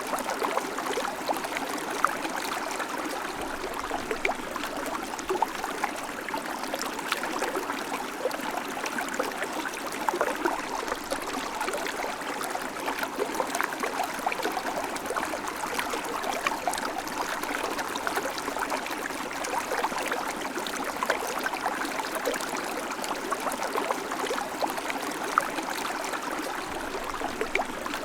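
River water flowing steadily, a light burbling rush full of small splashes, without a deep rumble.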